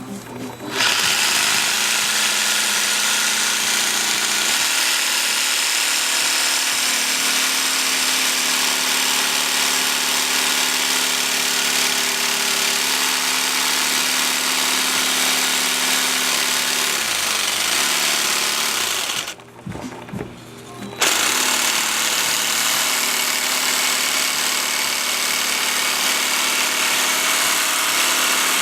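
Jigsaw with a diamond-grit blade cutting ceramic tile, running steadily. It stops for about two seconds about two-thirds of the way through, then starts again and keeps cutting.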